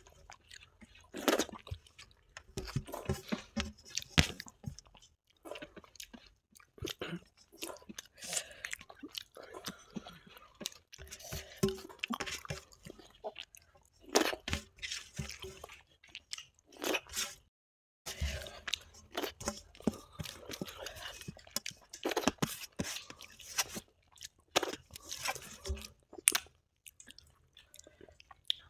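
Close-miked chewing and crunching in irregular bites and smacks, as two people eat rice and dal by hand along with crispy brinjal fry.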